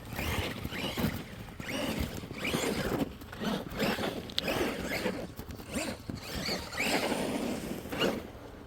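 Snow crunching in a string of short, irregular bursts, about one or two a second.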